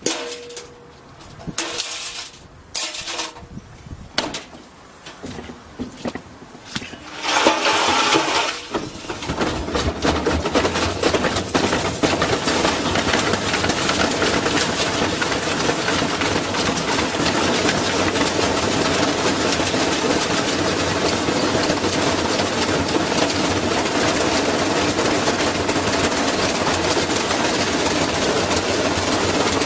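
Washing machine running with a brick loose in its drum: a few separate knocks at first, then about seven or eight seconds in it speeds up into a loud, continuous rattling and banging that holds steady.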